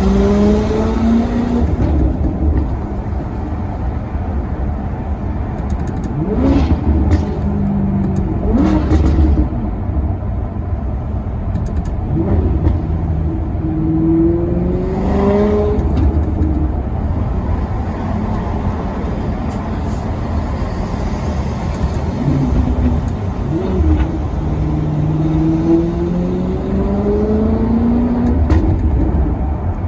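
Maserati Quattroporte Sport GT's V8 engine pulling through the gears, its note rising in pitch on three long accelerations. Between them come quick throttle blips on downshifts, sharp rises and falls in revs.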